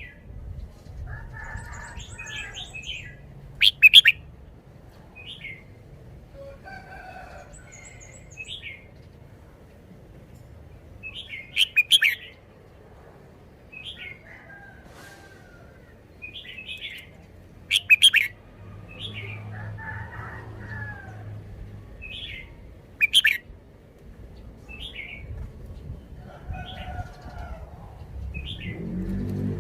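Red-whiskered bulbul singing: short whistled phrases and chirps, with a louder, sharper phrase every five to six seconds.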